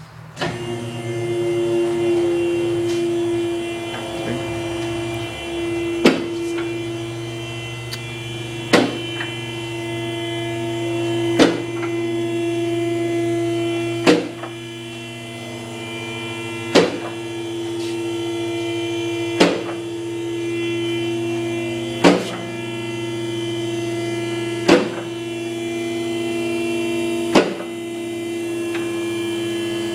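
Vehicle lift's electric hydraulic pump motor running steadily while raising a vehicle, with the lift's safety latches clicking past their notches about every two and a half seconds.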